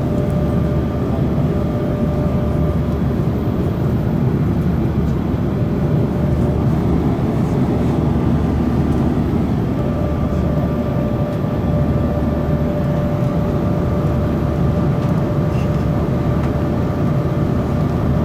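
Cabin noise of an Airbus A340-300 in flight: a steady drone of its four CFM56 engines and the airflow, with a faint steady whine that drops away for several seconds in the middle.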